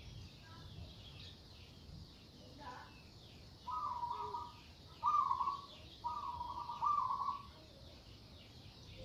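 Zebra dove (perkutut) cooing: three phrases of rapid, rolling coos in the second half, the last one the longest. Faint high chirps of other birds run underneath.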